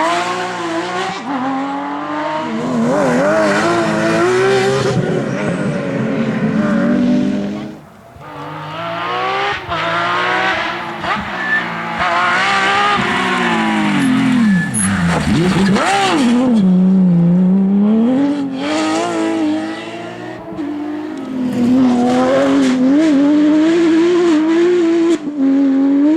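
Porsche 911 GT3 rally car's flat-six engine at full effort on a rally stage, revs climbing and falling through gear changes. Around the middle the pitch sinks low before climbing again.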